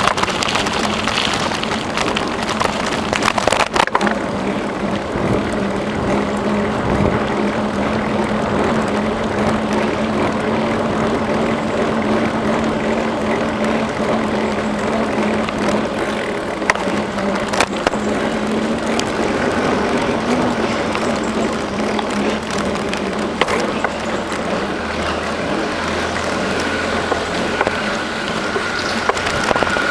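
Bicycle rolling along a trail: steady tyre and rolling noise with the bike rattling, a steady low hum through much of the middle, and a faint high tone coming in near the end.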